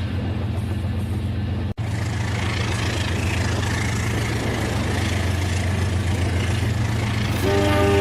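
Battery-powered Rail King toy train running, with a steady motor hum and rumble and a momentary drop-out a little under two seconds in. Near the end its electronic horn starts sounding as a chord of steady tones.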